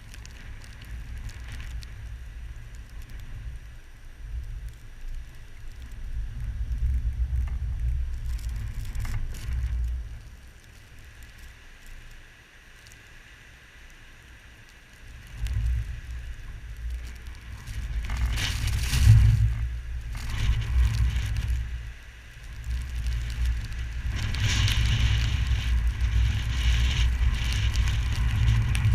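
Blizzard wind gusting into the microphone: a rough, low buffeting rumble that rises and falls, easing off for a few seconds near the middle. During the strongest gusts there is a hiss on top.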